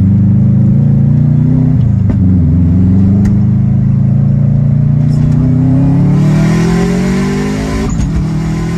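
Turbocharged EJ257 flat-four in a Subaru Forester, straight-piped, under hard acceleration. The engine note drops briefly about two seconds in, then climbs steadily through the gear, with a hiss building over it in the last few seconds. The pitch falls again near the end at the next shift.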